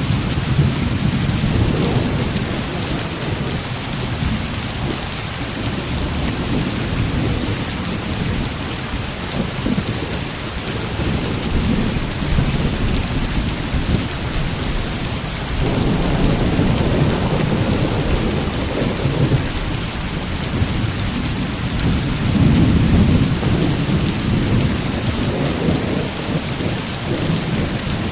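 Heavy rain falling steadily, with low thunder rumbling underneath that swells about halfway through and again near the end.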